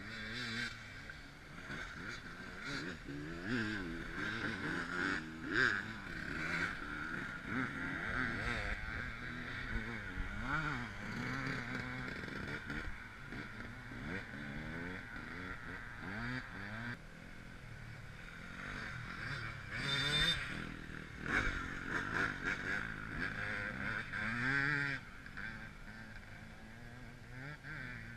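Off-road motorcycle engines revving as riders climb over the crest of a steep hill, the pitch rising and falling again and again.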